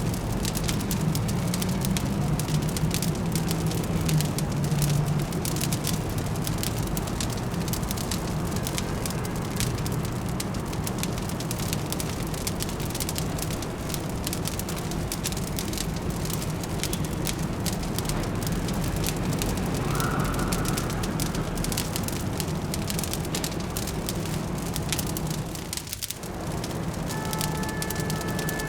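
Fireplace crackling with quick little pops over a steady low city hum. A short tone sounds about two-thirds of the way through, and near the end, after a brief dip, a steady tone of several notes sets in.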